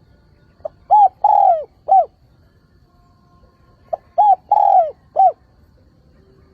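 A decoy spotted dove cooing, the call used to lure wild doves: two phrases about three seconds apart, each a short note and then three coos, the middle coo the longest, each note dropping in pitch at its end.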